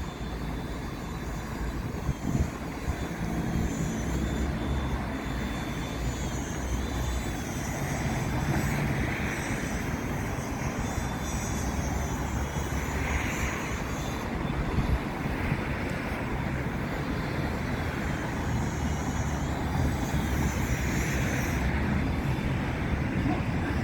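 Heavy vehicle running close by: a steady low rumble with a high whine that wavers up and down in pitch.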